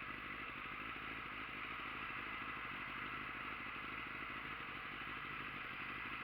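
Motorcycle engine running steadily while riding, at an even speed with no revving.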